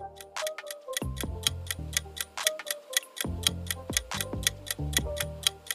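Countdown clock ticking evenly, about four ticks a second, over a light music track with low bass notes.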